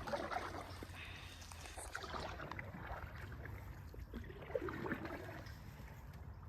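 Canoe paddles dipping and pulling through the water, splashing and trickling off the blades in a few separate strokes.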